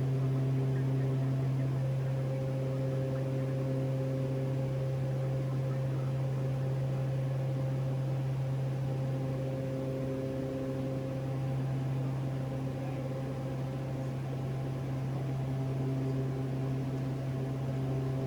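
Steady cruise drone of a Cessna Conquest 441's twin Garrett TPE331 turboprops inside the cockpit, with fainter humming tones above it that fade in and out over several seconds.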